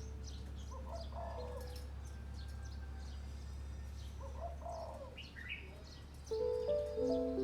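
Birds chirping faintly, with two short lower calls, one about a second in and another about four seconds in. A steady low hum runs underneath, and soft sustained music notes come in near the end.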